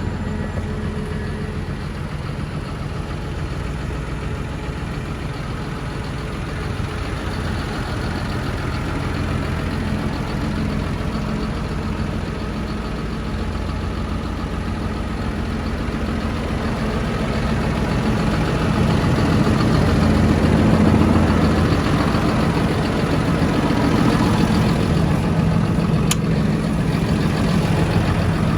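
Claas Arion 630 tractor's diesel engine idling steadily, growing louder from a little past halfway through. A brief sharp click comes near the end.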